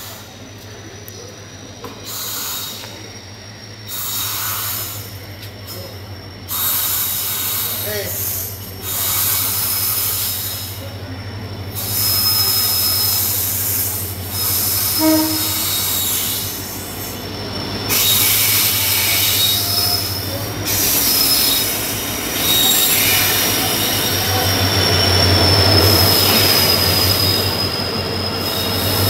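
Diesel-hauled passenger train pulling into a station: the WDP4D locomotive's engine drones as it approaches and passes, then the coaches roll by with a long, high squeal from the wheels as the train slows to stop. The sound grows louder toward the end.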